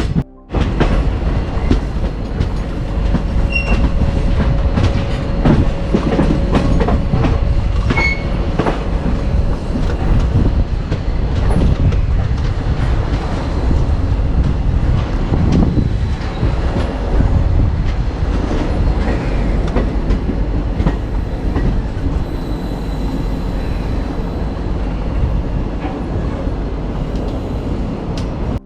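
Sabari Express passenger train running on the rails as it nears the station: steady rumble with the clickety-clack of wheels over rail joints, and a thin squeal held for several seconds in the first third.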